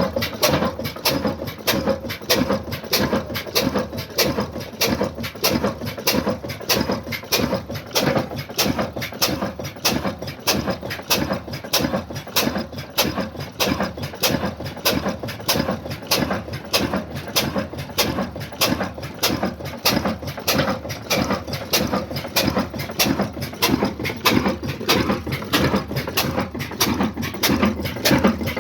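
Old Ruston Hornsby diesel engine running steadily, with a fast, even beat of knocks that never changes pace.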